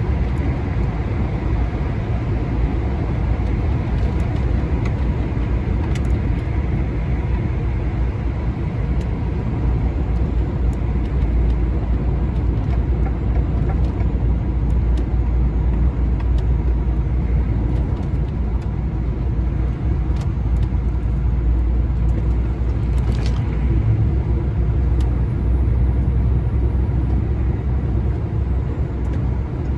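Lorry cruising steadily at motorway speed, heard from inside the cab: a constant low engine drone under a steady haze of tyre and road noise.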